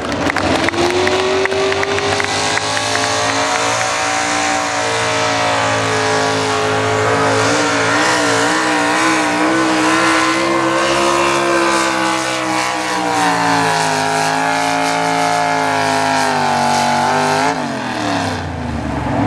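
Naturally aspirated pulling truck's engine held at high revs under full load as it drags the sled down the track. The pitch climbs at the start, wavers in the middle, and drops near the end as the driver comes off the throttle.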